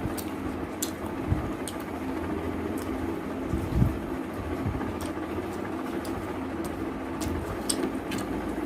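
Chewing and wet mouth clicks of someone eating chicken curry and rice, many short sharp smacks scattered over a steady background hum.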